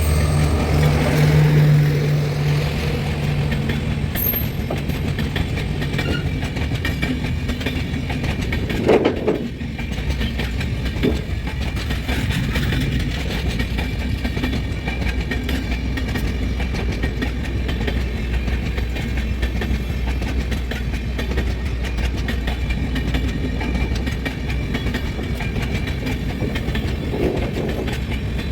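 Avadh Assam Express running on the rails with a steady clatter. A diesel locomotive's engine hum is heard in the first couple of seconds, and there is a single sharp clank about nine seconds in.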